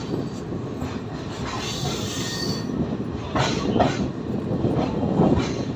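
Passenger train running slowly on its rails, heard from the coach's open doorway: a steady rumble with the knock of wheels over rail joints several times. About two seconds in there is a brief high wheel squeal.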